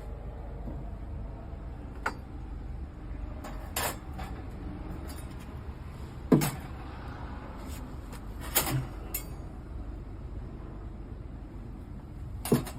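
Several separate knocks and clanks of objects being handled and set down, the loudest about six seconds in, over a steady low hum.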